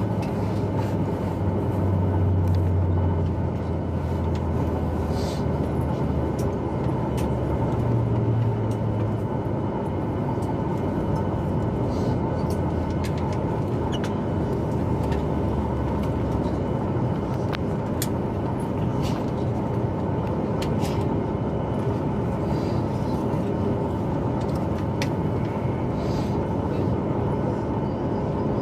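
Cabin noise inside a Boeing 737 MAX 8: a steady rush of engine and air noise with a low rumble that swells and eases during the first several seconds. Light clicks and rattles are scattered throughout.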